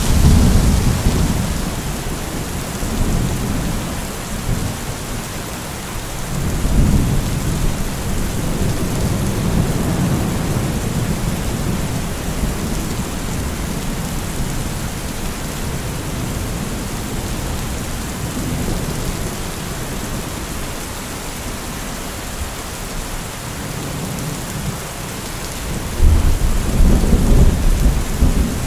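Heavy rain falling steadily, with rolling thunder: a rumble at the start, another swelling about a quarter of the way in, and a sudden, louder peal near the end.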